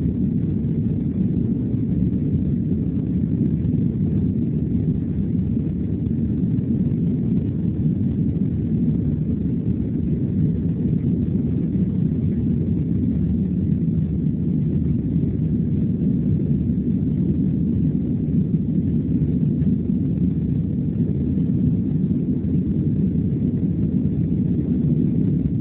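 Boeing 767-300 jet engines and airframe heard from inside the passenger cabin during takeoff: a loud, steady deep rumble.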